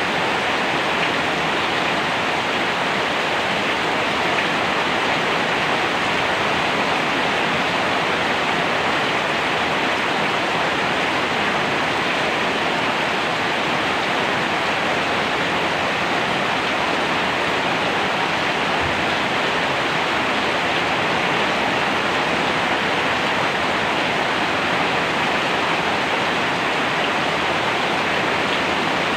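Steady rain making an even rushing hiss, with no single drops, thunder or changes standing out.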